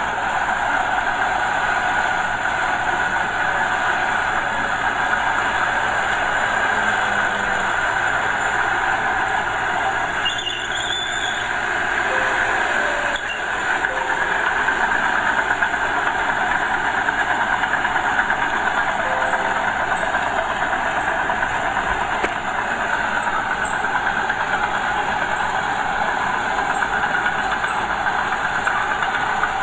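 Diesel engine of a small Komatsu bulldozer running steadily under load as it pushes soil, with a continuous mechanical clatter.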